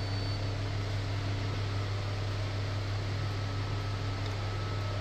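Steady low machine hum with a few faint steady tones above it, and no distinct knocks or clicks: the background drone of laundromat machinery.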